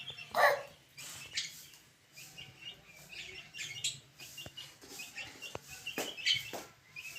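Budgerigars and chicks chirping: a steady run of many short, high chirps, with one louder falling call near the start and a few sharp ticks about two-thirds of the way through.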